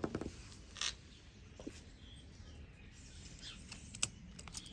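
A few faint, sharp clicks and taps from small tools and parts being handled while a smartphone's camera modules are worked loose. There is a small cluster at the start and single clicks about a second in and near the end.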